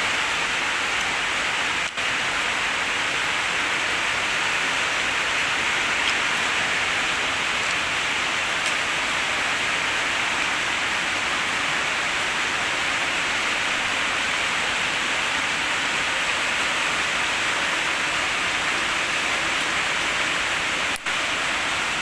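H&L QL-1200 jet cleaner spraying water at high pressure: a steady, loud hiss of spray that drops out for an instant twice.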